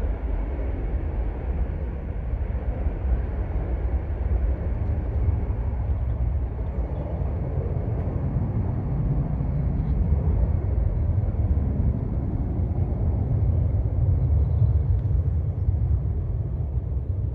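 Low, steady rumble of jet airliner engines, the higher part of the sound fading over the first few seconds.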